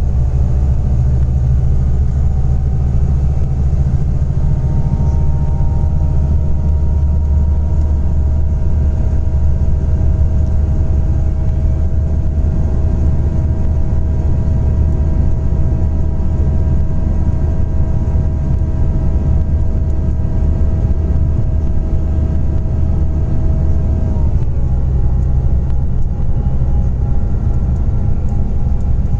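Scania Interlink natural-gas coach under way, its engine and drivetrain giving a steady deep rumble with a whine that slowly climbs in pitch, then drops suddenly near the end.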